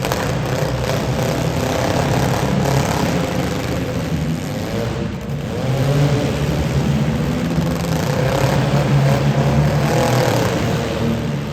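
Demolition derby car engines running loud, several engines overlapping, their pitch repeatedly rising and falling as the drivers rev.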